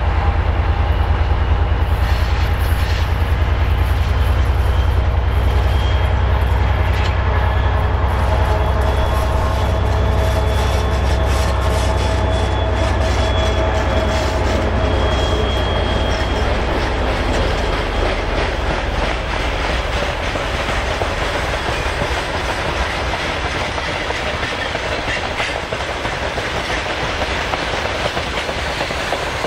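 Three-section 2M62U/2M62 diesel locomotive set, its two-stroke V12 diesel engines running with a deep throb, passing with a freight train. The engine throb fades over the second half and gives way to the clickety-clack of the freight wagons' wheels over the rail joints.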